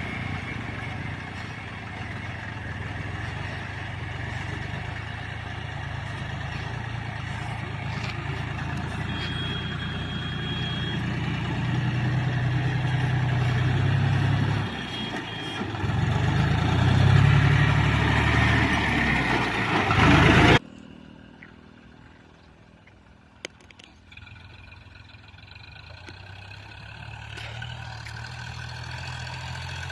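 Farm tractor's diesel engine labouring while it pulls a fully loaded trolley, the revs rising twice. About two-thirds through, the sound drops off suddenly, and a quieter engine sound builds up again.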